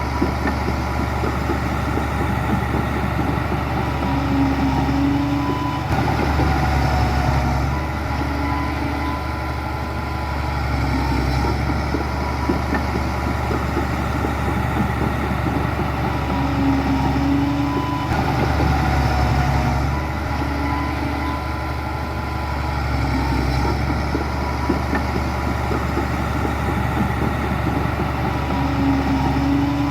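Heavy diesel engines of earthmoving machinery running steadily, a deep continuous drone with a few short higher-pitched tones now and then.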